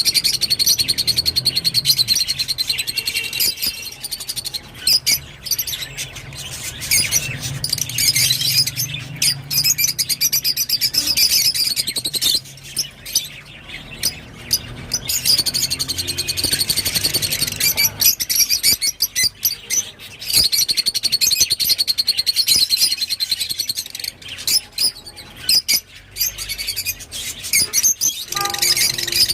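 Rosy-faced lovebirds chirping and chattering in rapid, high-pitched bouts, with a few short lulls between them.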